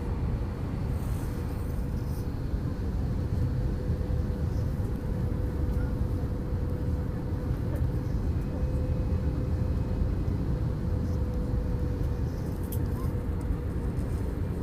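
Airbus A321 airliner cabin noise: a steady low rumble of engines and airflow, with a faint steady whine held underneath.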